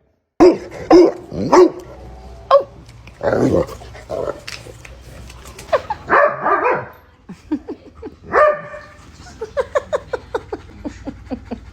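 A dog barking repeatedly in loud, sharp barks, then breaking into a fast run of short yips, about four a second, near the end.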